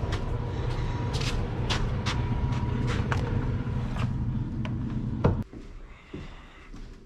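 Dump truck's diesel engine idling steadily, with scattered clicks and knocks over it; about five seconds in a door shuts with a knock and the engine sound drops away, heard muffled after that.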